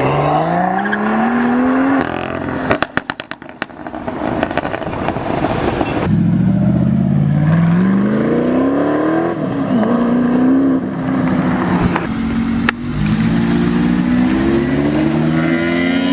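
A car on a full Armytrix aftermarket exhaust accelerating hard, its engine note climbing, then a burst of pops and crackles from the exhaust on lift-off about three seconds in. Engines then pull up through the revs again twice more, with a gear change near the middle.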